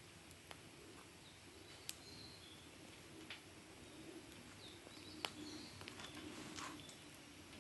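Wood fire crackling faintly, with a handful of sharp pops, the loudest about five seconds in. Small birds chirp in the background.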